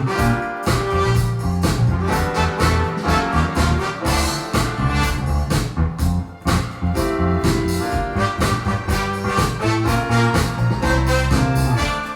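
Music played back through Teufel Ultima 40 Mk3 floor-standing loudspeakers: a full mix with a heavy, prominent bass line and a steady drum beat.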